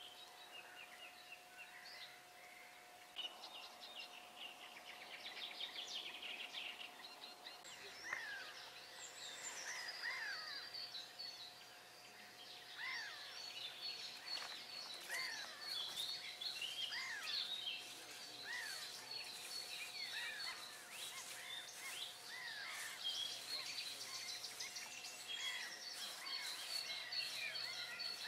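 Several songbirds calling and singing, with many short chirps, falling whistles and rapid trills that grow busier after about nine seconds, over a faint steady hum.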